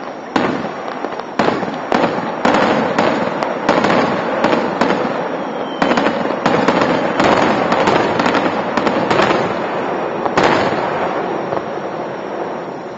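Aerial firework shells bursting in quick succession, several bangs a second with crackling between them. The last big bang comes about ten and a half seconds in, then the sound dies away. Recorded through a car dashcam's microphone.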